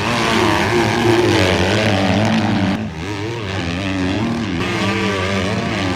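Motocross dirt bike engines revving hard, their pitch climbing and dropping repeatedly as the riders race around the track, with a brief drop in loudness about three seconds in.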